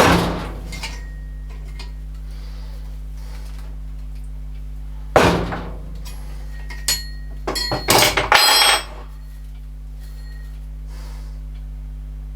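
Metal tools and parts knocking and clinking in a workshop: a sharp knock at the start and another about five seconds in, then a quick run of metallic clinks and rattles with short ringing tones, all over a steady low hum.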